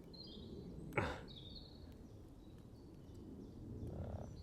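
A few faint, short, high songbird chirps over a low steady outdoor rumble. A single sharp knock about a second in is the loudest sound.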